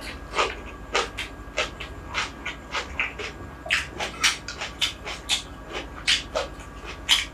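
Close-miked wet chewing and lip smacking of a mouthful of rice eaten by hand: a string of sharp, irregular smacks, a few each second.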